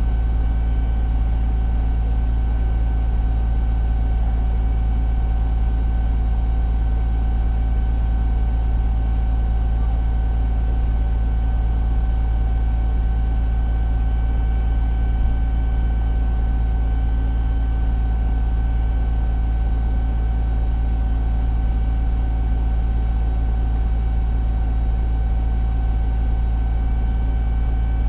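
Fire engine's diesel engine running at a steady, unchanging speed, heard inside the cab. A low drone carries a steady high whine over it.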